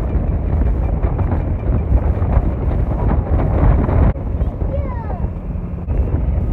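Road and engine noise of a moving vehicle, with wind buffeting the microphone and faint voices under it; the sound changes abruptly about four seconds in and again near six seconds.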